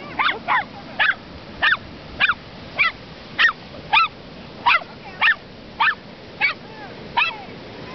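A dog barking in short, high-pitched yips, about thirteen in a steady rhythm of a little under two a second, over a faint steady hiss of surf.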